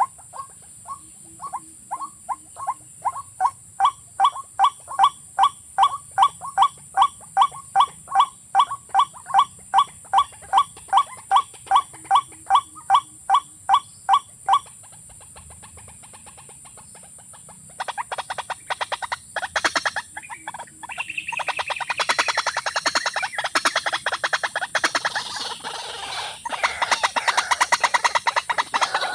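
A water bird of the rail family calling: a long series of evenly spaced hollow calls, about two a second, then after a short pause a faster, denser and louder run of calls.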